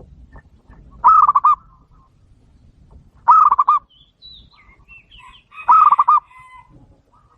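Zebra dove (perkutut) calling: three short phrases of four or five rapid staccato coos, about two seconds apart. Fainter chirps from other small birds come in between.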